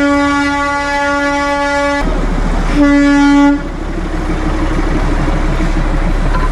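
Train whistle sounding one long blast, then a shorter, louder blast about three seconds in, followed by a steady rushing noise.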